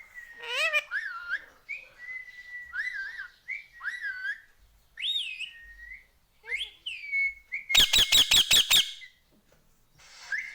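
Pet Indian ringneck parakeet whistling and chirping in a string of short gliding notes, then letting out a rapid burst of about seven harsh notes within a second.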